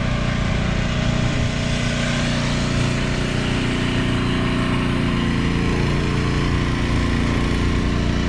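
An engine idling steadily, with a slight change in its note about five and a half seconds in.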